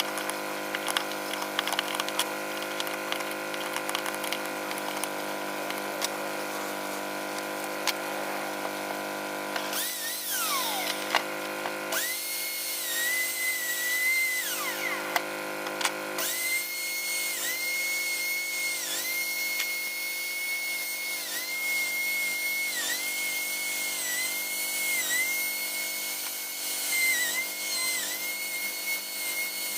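Handheld electric rotary power tool carving wood, with a steady high-pitched motor whine. About ten seconds in it spins down with a falling pitch, then starts up again. After that its pitch dips briefly again and again as it bites into the wood.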